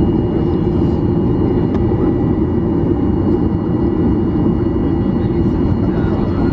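Steady engine and airframe noise of a Boeing 737-800's CFM56 engines, heard inside the passenger cabin as an even low rumble with a few faint steady high whines above it.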